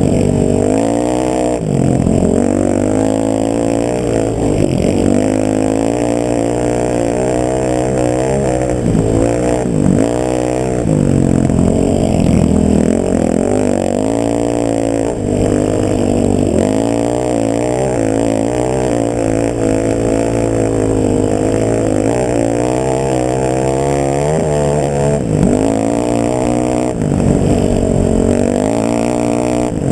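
Motor vehicle engine running, its pitch repeatedly dropping and climbing again as engine speed changes.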